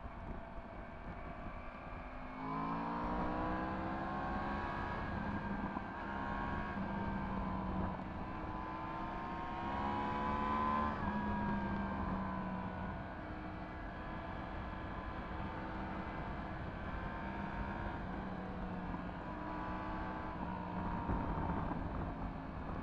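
Yamaha MT-10 SP's crossplane inline-four through an Akrapovič exhaust, ridden on the road. The engine note climbs as it accelerates about two seconds in, climbs again near the middle and then drops as the throttle closes, over a constant rush of wind noise.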